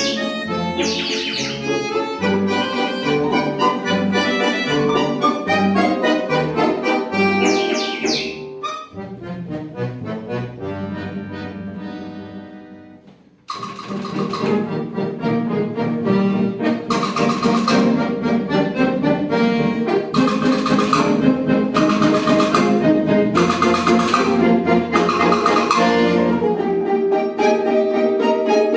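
Folk-instrument orchestra playing. About twelve seconds in the music dies away almost to nothing, then comes back suddenly and louder with repeated bright chords.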